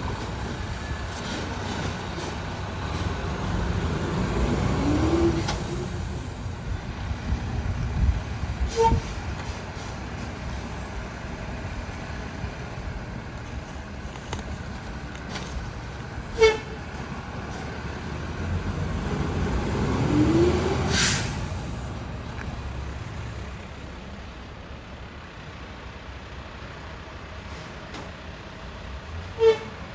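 Rear-loader garbage truck's diesel engine running, speeding up twice as the Heil packer cycles, with a hiss of air near the second rise. Three short beeps stand apart from the engine sound.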